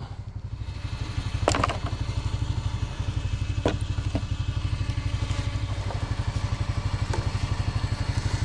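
A vehicle engine running steadily at idle with an even pulsing beat, and a few short clanks over it.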